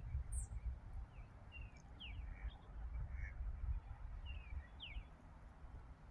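Birds calling: scattered short, high chirps and peeps, mostly quick falling notes, over a steady low rumble.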